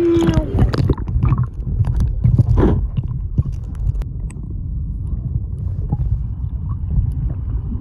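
Shallow ocean water sloshing and churning close to the microphone, over a loud low rumble and scattered clicks, busiest in the first three seconds.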